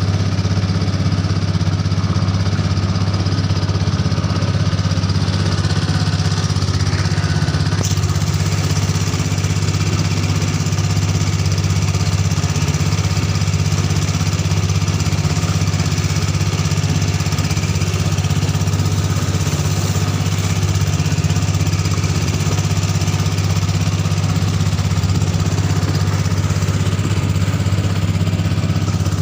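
Ketinting longtail boat engine, a 6.5 hp Honda single-cylinder four-stroke petrol engine, running steadily at a constant speed with an even drone.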